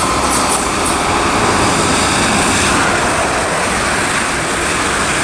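A train of two Class 450 electric multiple units passing through the station, with steady noise from the wheels on the rails.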